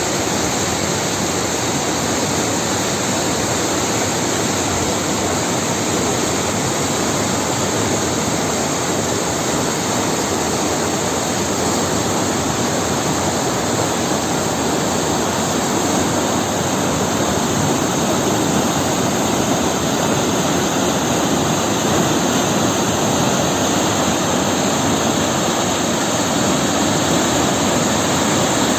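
Floodwater pouring over a river weir: a loud, steady rush of water.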